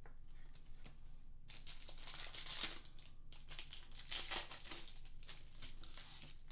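Trading-card pack wrapper being torn open and crinkled, with louder rips about two and a half seconds in and again near four and a half seconds.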